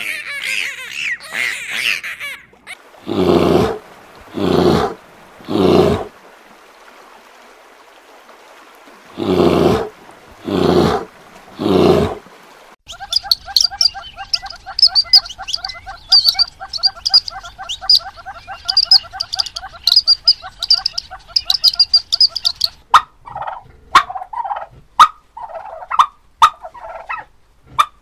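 A run of animal sounds: dolphin whistles for the first two seconds or so, then six loud, deep calls in two sets of three, then a small songbird's fast chattering song for about ten seconds, and domestic turkeys gobbling from about five seconds before the end.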